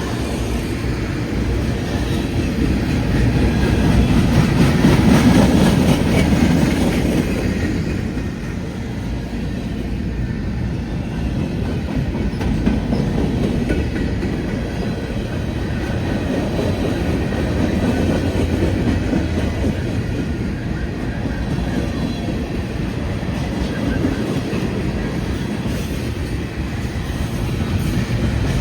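A train rolling past, its wheels clicking over the rails, loudest about four to six seconds in and then running steadily.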